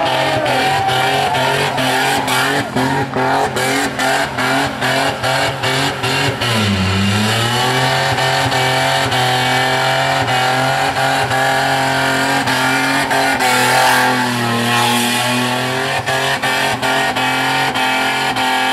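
Holden VN Commodore's 3.8-litre V6 held at high revs in a burnout, its rear tyres spinning. For the first several seconds the engine stutters in rapid short cuts, as when it bounces off the rev limiter. About seven seconds in the revs drop briefly and then climb again.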